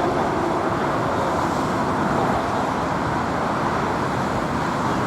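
Boeing 747 jet engines running, a steady rushing noise that holds level throughout.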